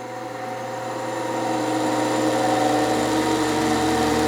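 Grinding-head spindle motor of a Kuhlmann single-lip cutter grinder running up to speed just after switch-on: a steady hum and whine that grows louder over the first couple of seconds, then holds even. The spindle sounds good, a sign of healthy bearings.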